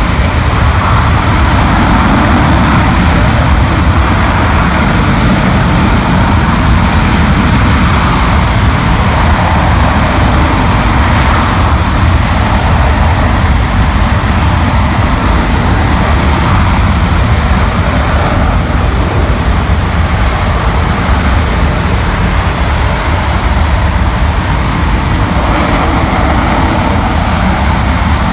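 RS-25 liquid-hydrogen rocket engine in a static test firing: a loud, steady rumble with a heavy low end and a wide hiss above it.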